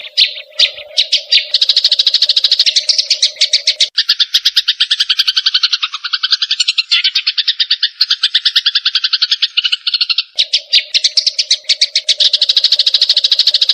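Recorded calls of a grey-cheeked bulbul (cucak jenggot) and Eurasian tree sparrows in an agitated fighting exchange: dense, rapid chattering notes repeated many times a second. A steady lower hum runs beneath the chatter for the first four seconds and again from about ten seconds in.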